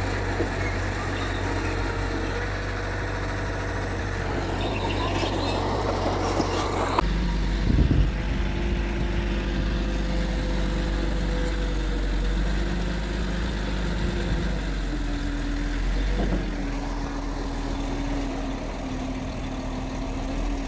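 Mitsubishi G2 bulldozer's diesel engine running steadily. About seven seconds in its tone changes abruptly, and a short thump follows a moment later.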